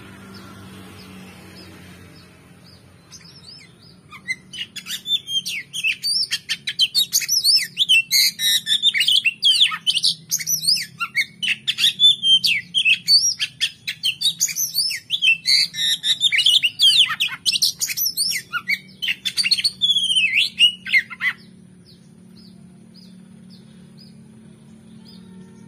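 Oriental magpie-robin (kacer) singing a fast, varied run of loud whistles and chattering phrases, starting about four seconds in and breaking off abruptly a few seconds before the end. A steady low hum runs underneath, with faint regular ticks about once a second before and after the song.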